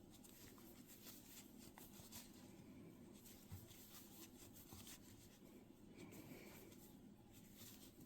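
Near silence, with the faint rubbing of yarn and light clicks of a crochet hook working single crochet stitches.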